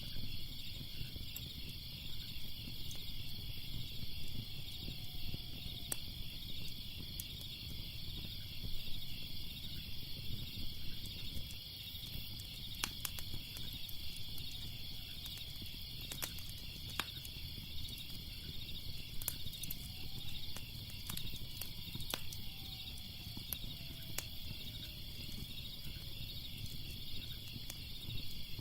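Crackling fire with scattered sharp pops over a low rumble, with crickets chirping steadily in a high, rapidly pulsing drone.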